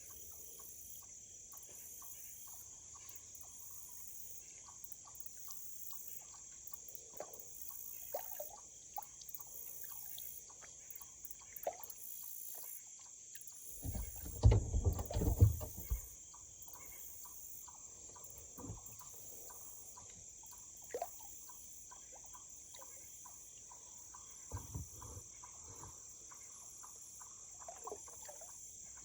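Kayak paddle dipping and dripping water on calm water, with a steady high insect drone behind it. About halfway through come a couple of seconds of loud low rumbling and knocking, with a shorter bout near the end.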